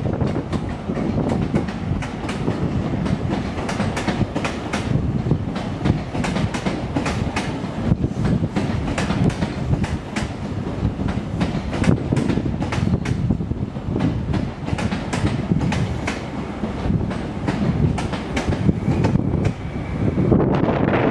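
Diesel passenger trains moving slowly through the station pointwork: a steady low engine rumble with a long run of sharp wheel clicks over rail joints and crossings.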